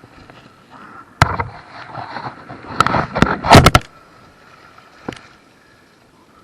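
Sharp knocks and clatter from a kayak being handled: one hard knock about a second in, a quick cluster of knocks and rattling around three to four seconds, and a single knock near five seconds.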